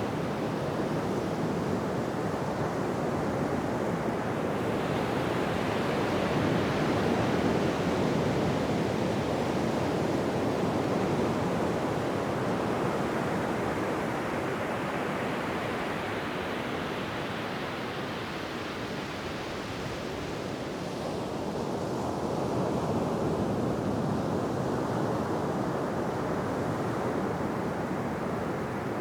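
Ocean surf washing on a beach: a continuous rush of waves that swells and eases slowly, with a lull about two-thirds of the way through before the next wave builds.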